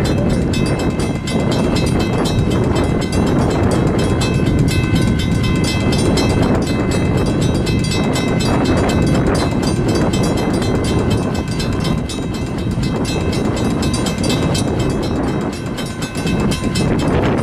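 Freight train wagons rolling past on the rails, a steady heavy rumble with light clicking, and several faint steady high tones above it.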